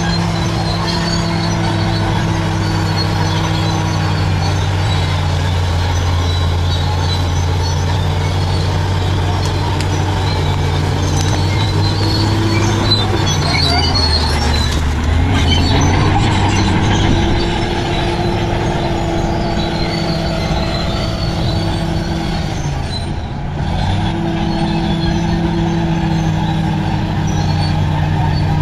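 Large bulldozer's diesel engine running hard under load. Its pitch sags and recovers about halfway through and again near the end.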